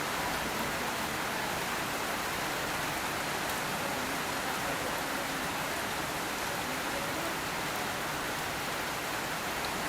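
Steady rain falling, an even hiss of water with no individual drops standing out.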